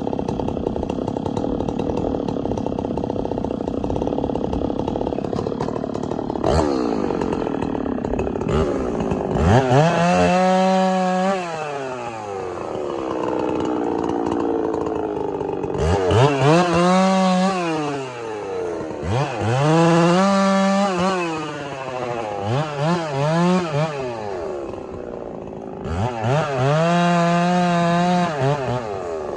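Chainsaw cutting firewood. It runs at a lower speed for the first several seconds, then is throttled up to a high-pitched scream about five times, each time holding briefly and dropping back as the throttle is released.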